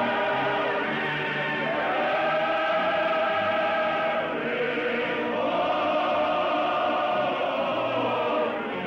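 A choir singing slowly in long held chords that move to a new chord every few seconds.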